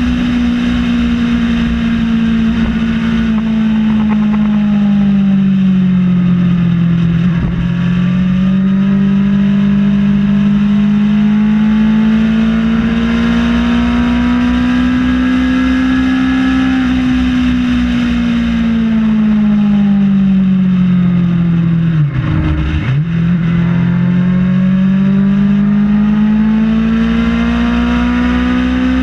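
Kawasaki ZX-6R inline-four engine running at highway speed, heard from an onboard camera over wind rush. Its pitch rises and falls gently with the throttle. About three-quarters of the way through, the pitch dips sharply and comes straight back up.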